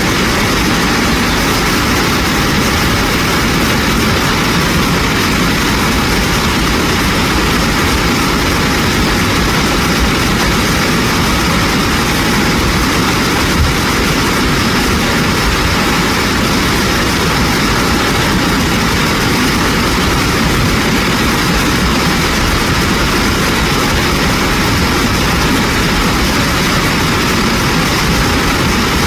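Rushing water of a mountain stream, a loud, steady noise with no change.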